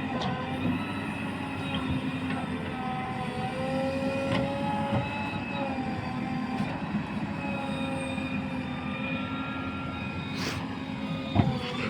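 Heavy diesel engine running steadily with a slightly wavering pitch, with a few sharp clanks, a couple of them near the end.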